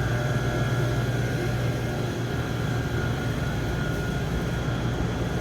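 Steady low machine hum with a faint thin whine above it.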